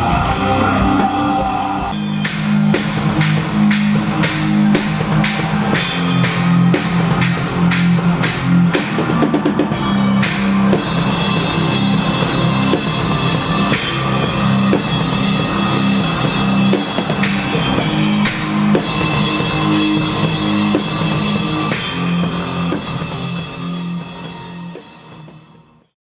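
Rock band playing live, with a drum kit beating steadily under guitars. The music fades out near the end.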